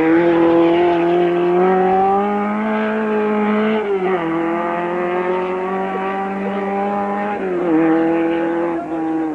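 Hill-climb race car engine at full throttle, its pitch climbing steadily through each gear, with two upshifts about four and seven and a half seconds in. The sound is dull, with no treble, as recorded on old Betamax videotape.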